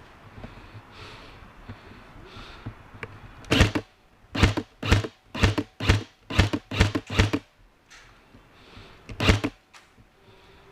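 An airsoft gun firing a string of single shots, about ten over four seconds, roughly two a second, with one more shot a couple of seconds later.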